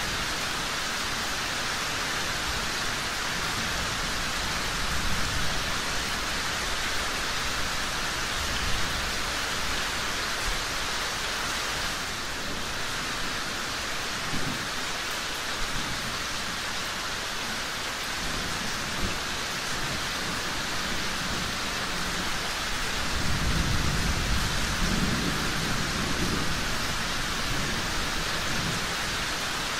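Steady rain falling, a dense even hiss, with low rumbles of distant thunder; the longest rumble swells up about three quarters of the way through.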